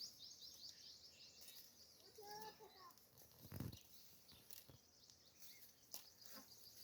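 Faint birds chirping: quick, repeated high chirps with a few lower calls. There is one soft low thud about three and a half seconds in.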